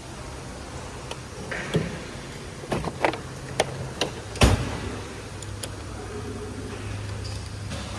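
A string of sharp knocks and clanks, about eight, the loudest a little past halfway, over a steady low hum.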